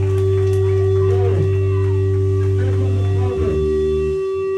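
Electric guitar and bass through amplifiers ringing out on a held note, with no drums. The low bass drone shifts and thins about three seconds in.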